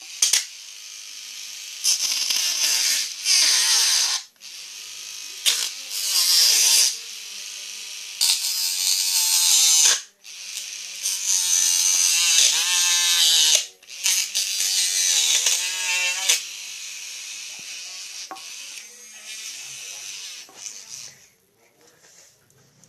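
A small electric motor driving a homemade sanding and cutting tool, run in repeated bursts of one to three seconds. Each burst is a high hiss with a motor whine that dips and rises in pitch. The bursts stop near the end.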